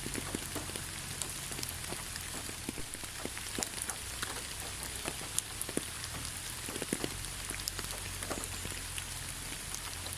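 Steady rain falling in a forest, a constant hiss with many separate drops tapping close by.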